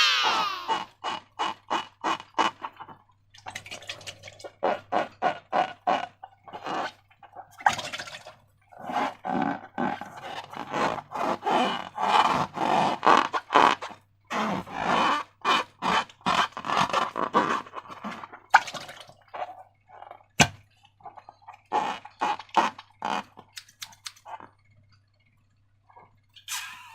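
Slime being squeezed and worked by hand: quick runs of wet, sticky squelches and clicks, several a second, with one sharp click about three quarters of the way through.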